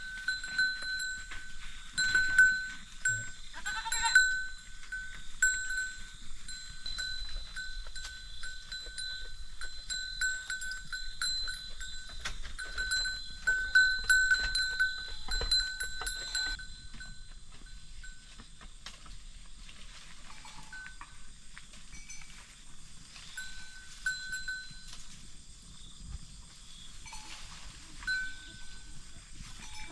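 A small metal bell among goats, clinking over and over through the first half and only now and then afterwards. A goat bleats once about four seconds in.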